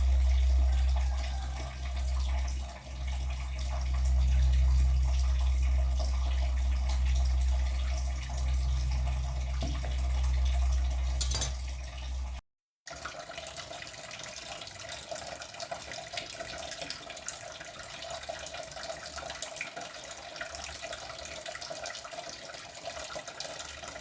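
Tap water running into a kitchen sink, an even splashing hiss. It cuts off abruptly about halfway through, then carries on more quietly after a brief silence.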